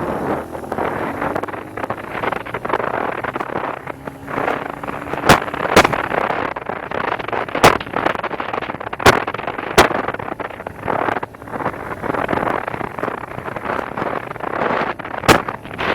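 Small dirt bike engine running under heavy wind buffeting on the microphone, with about six sharp knocks scattered through it.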